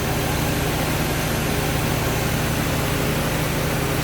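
Car engine idling steadily while being heat-cycled with fresh coolant, with its electric radiator cooling fans running.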